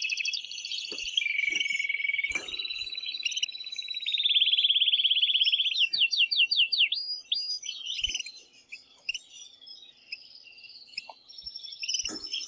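Male domestic canary singing in full, excited song: long fast trills and rolls, a run of quick sweeping notes about six seconds in, then softer broken chirps. A few faint clicks are heard along with it.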